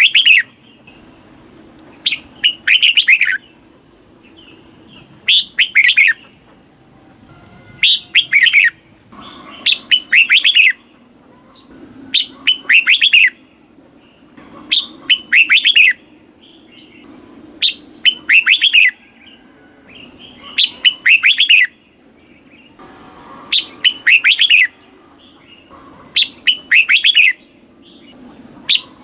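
Red-whiskered bulbul singing: short phrases of several quick falling notes, repeated about every two and a half to three seconds.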